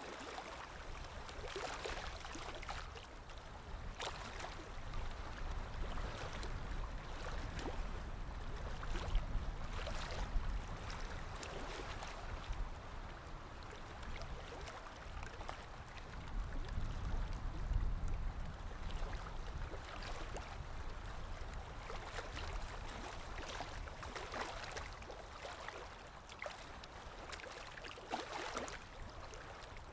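Stream water running and gurgling steadily, with a low rumble underneath that swells about a third of the way in and again just past the middle.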